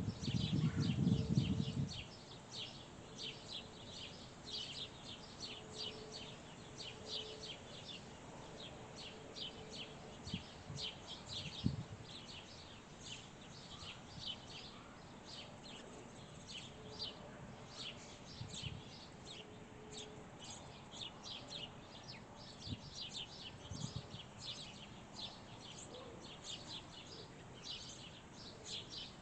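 Small songbirds chirping rapidly and continuously, several short high chirps a second. A loud low rumble fills the first two seconds, and a few soft low thumps come later.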